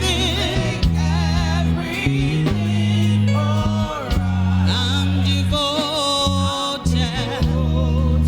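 Gospel worship song: voices sing with vibrato over an instrumental backing of long held low chords that change every second or two.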